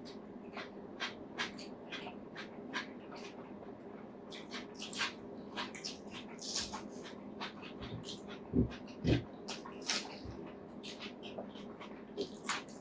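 Close-up eating sounds: chewing and lip-smacking as pork curry is eaten, many short wet clicks at an irregular pace. Two duller knocks come about two-thirds of the way through, over a steady low hum.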